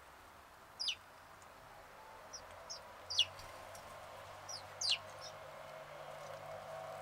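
Songbird calling outdoors: three sharp chirps that sweep quickly downward in pitch, about two seconds apart, the second and third each preceded by a couple of short high notes.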